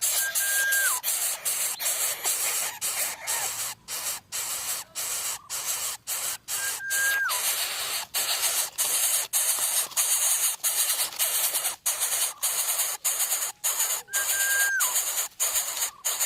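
Greater coucal nestlings hissing in a rapid run of harsh bursts, broken by short gaps. Three times a short high whistled note sounds over it, each held briefly and then dropping in pitch.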